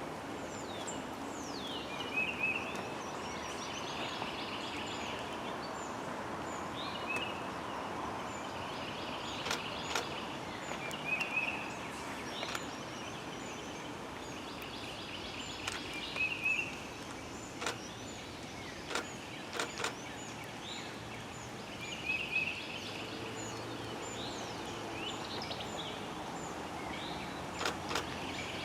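A songbird singing a short, repeated phrase about every six or seven seconds over a steady outdoor hiss, with a few sharp ticks scattered through.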